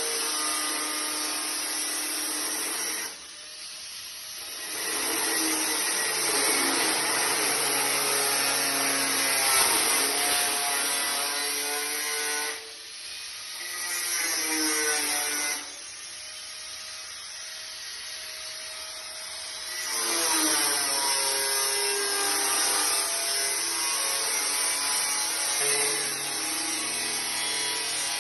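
Power tool working metal, its whine shifting in pitch as it bites, in several long bursts with quieter gaps between them.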